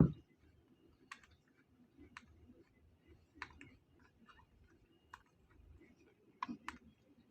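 Quiet eating sounds: a thump right at the start, then scattered sharp clicks every half second to a second, from utensils and mouth.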